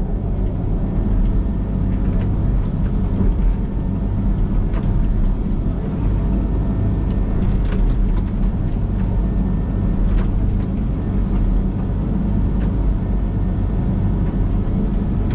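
Diesel engine of a Link-Belt excavator running steadily under work, with a few faint knocks scattered through.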